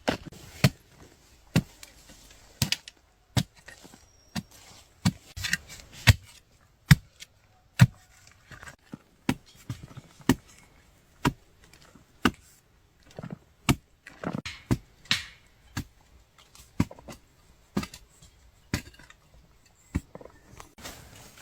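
A hand digging tool, such as a hoe or mattock, chopping repeatedly into earth and roots while digging up wild tubers. The strikes are sharp and come a little under once a second, unevenly spaced, with some scraping and rustling between them.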